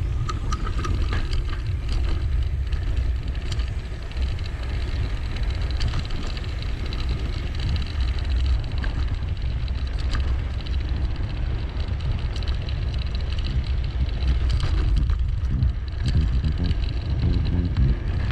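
Wind buffeting an action-camera microphone during a mountain-bike ride, a heavy steady rumble with scattered clicks and rattles from the bike over rough ground.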